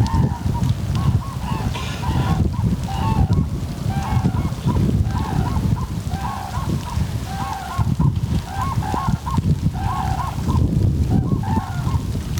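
Geese honking over and over, about two short calls a second, over a steady low-pitched noise.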